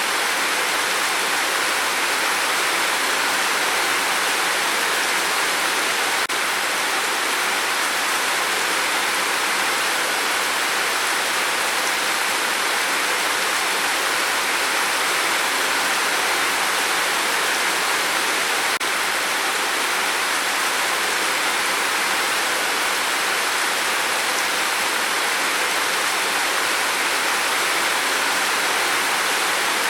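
Steady heavy rain falling on a tin roof, a dense, even hiss of drops with no let-up.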